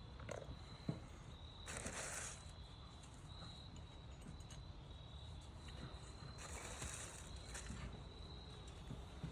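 Crickets chirping faintly in a thin, high trill that comes and goes, with two brief rustles about two and seven seconds in.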